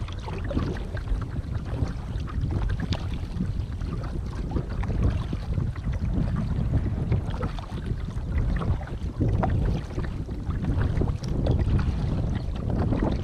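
Wind buffeting a GoPro's microphone, a loud uneven low rumble, over the water sounds of a kayak being paddled: scattered small splashes and lapping.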